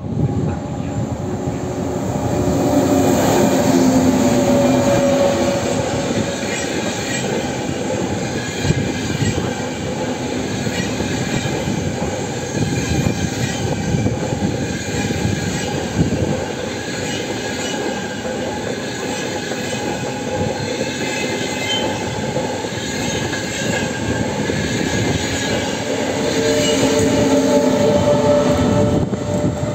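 Trenitalia Frecciarossa high-speed electric train running past close by, a steady rumble of wheels on rails. A whine rises over the rumble near the start and again near the end, and a couple of sharp clacks stand out in the middle.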